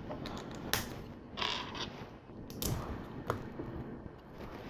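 Plastic LEGO pieces clicking and rattling as they are picked out and handled: a few separate sharp clicks, with a short rustle of pieces about a second and a half in.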